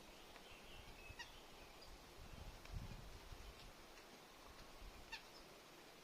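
Near silence outdoors, with a few faint, short, high bird calls and chips, clearest about a second in and again near the end, and a brief low rumble midway.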